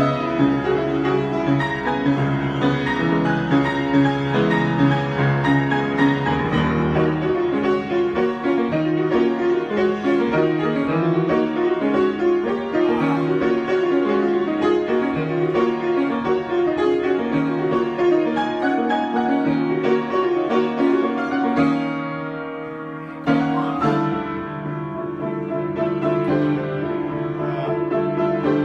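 Improvised piano playing: quick runs of notes with sustained chords, easing off about three quarters of the way through before a strong chord starts a new passage.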